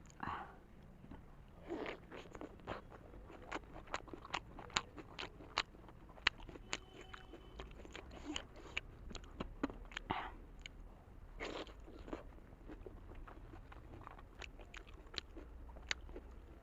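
Close-miked eating sounds: a giant steamed momo dumpling being bitten and chewed, with many small wet clicks and smacks of the mouth.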